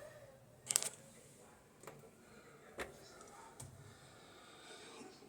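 A few scattered sharp clicks and knocks over a faint background, the loudest a quick double knock about a second in.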